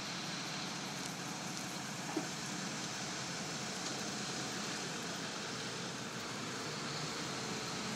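Steady vehicle noise, an engine and road-like hiss running evenly, with one brief short tone about two seconds in.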